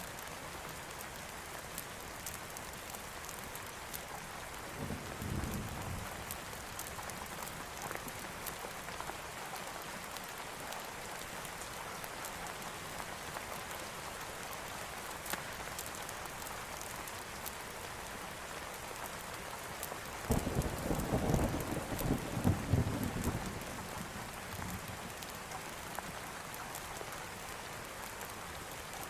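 Steady rain falling, with distant thunder rolling twice: a short rumble about five seconds in, and a longer, louder roll from about twenty to twenty-four seconds.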